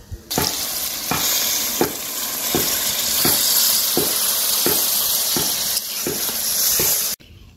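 Tengra fish and masala sizzling as they fry in oil in a pan, stirred in regular strokes about once every 0.7 seconds. The sizzle cuts off abruptly near the end.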